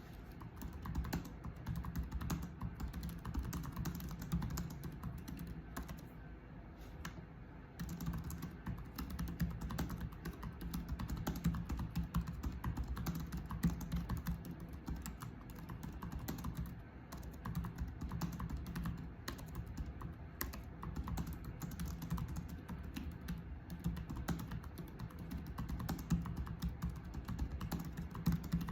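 Typing on a computer keyboard: a steady run of irregular key clicks, with a short pause about six seconds in.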